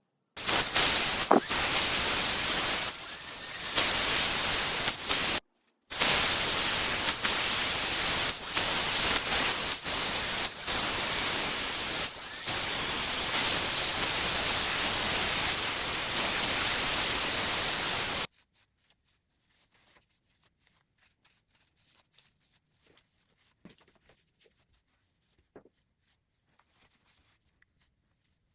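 Hair dryer blowing: a loud steady rush of air that stops for half a second about five seconds in, then cuts off suddenly a little past halfway, leaving only faint small handling sounds.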